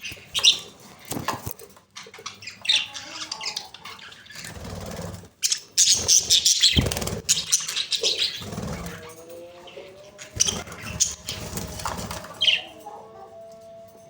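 Budgerigars chattering in quick, warbling runs of high chirps, with a few low thuds in the middle.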